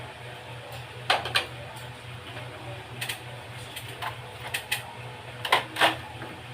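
A steady, pulsing low mechanical hum with scattered sharp clicks and knocks, the loudest pair near the end.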